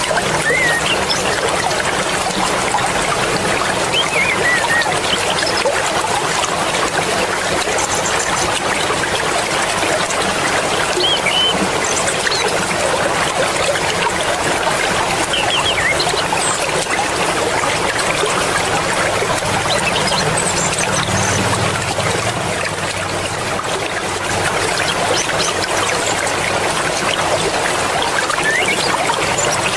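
Mountain river rushing and splashing steadily over rocks, a constant loud flow of water.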